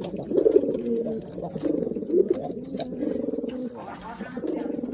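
Domestic pigeons cooing in their loft, several birds' low bubbling coos overlapping without a break.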